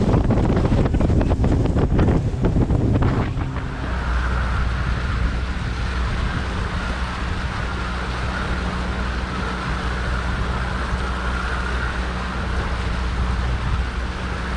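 Wind buffeting the microphone for the first few seconds, then a motor's steady low drone from about three and a half seconds in.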